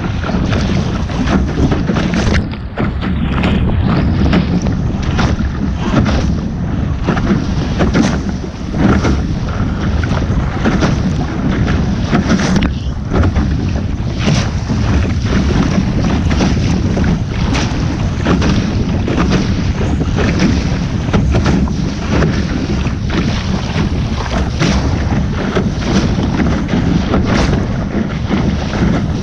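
Wind blowing hard across the microphone while sailing a small boat, a dense low rumble broken by frequent short gusts and knocks.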